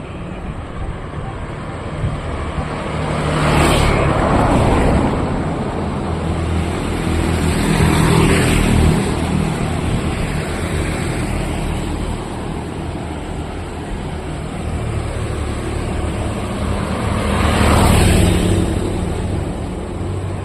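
Road traffic: a steady low engine rumble, with vehicles passing close by three times, swelling and fading about four, eight and eighteen seconds in.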